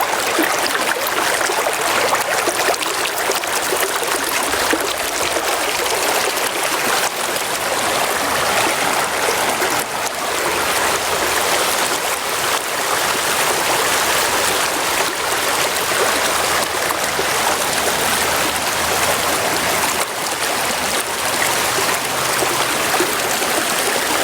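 A river flowing, a steady rush of running water.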